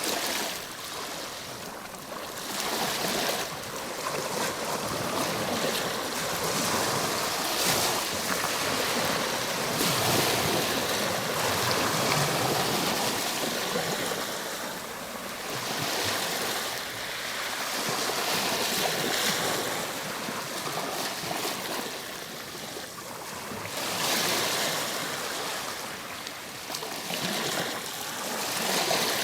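Ocean waves breaking and washing on a shore, a continuous surf that swells and subsides every few seconds.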